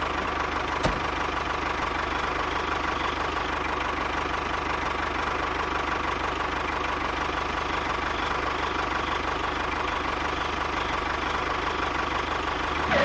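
A small engine idling steadily with an even rhythm, with one light click about a second in.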